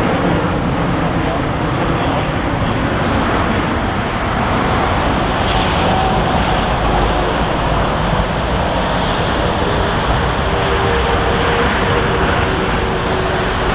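Jet airliner engines running with a steady, loud rushing noise, with faint steady tones showing through in the second half.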